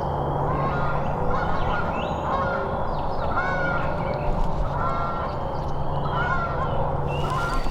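Turkey yelps: a series of short, arched calls repeated roughly once a second.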